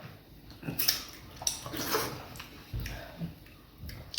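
Wet eating sounds, several irregular smacks and clicks as fufu with vegetable soup is chewed and handled.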